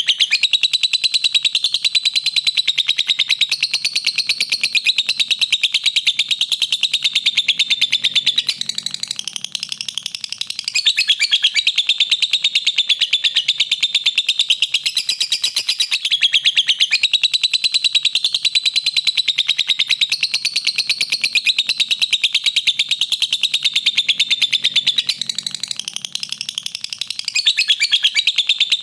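Lovebird chattering in a long, unbroken run of rapid, high chirps, easing briefly twice before picking up again.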